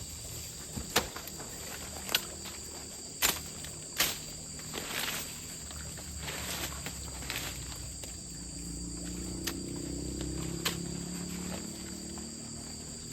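Steady high insect chorus, crickets or cicadas, with scattered sharp knocks and footstep-like clicks.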